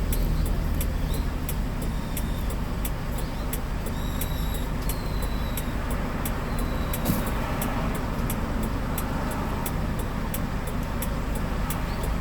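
Hyundai Porter 2 box truck driving, a steady low engine and road rumble heard from inside the cab, with a faint regular ticking about three times a second.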